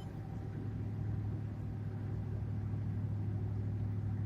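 Pickup truck cruising on the road, heard from inside the cab: a steady low drone of engine and road noise.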